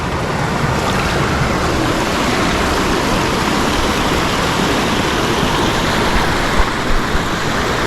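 Rushing mountain stream: a steady, loud rush of flowing water, with a couple of brief low bumps near the end.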